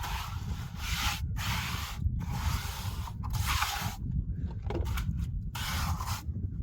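Repeated long scraping strokes, about five, each lasting around a second with short breaks and a longer pause near the middle, over a steady low rumble.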